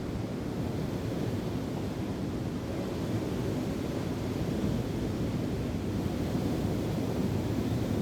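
Wind and waves: a steady low rumble of surf with wind buffeting the microphone, no distinct bird calls.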